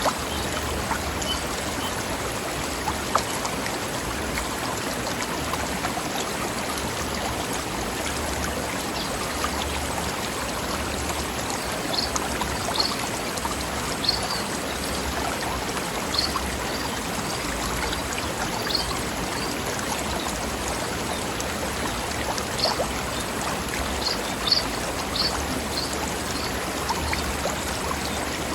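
Stream of water rushing and babbling over rocks, a steady full hiss. In the second half, brief high-pitched blips come through above it now and then.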